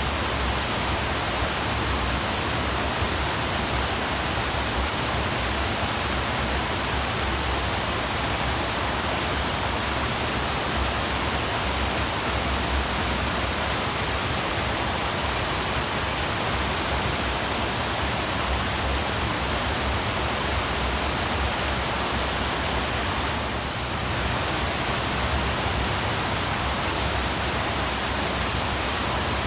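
Waterfall: a steady, unbroken rush of falling water, with one brief slight dip about three-quarters of the way through.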